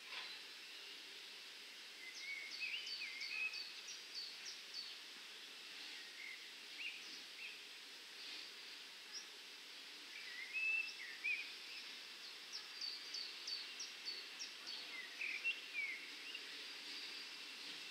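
Birds singing two bursts of quick chirps and short falling whistles, one about two seconds in and another from about ten seconds in, over faint steady background noise.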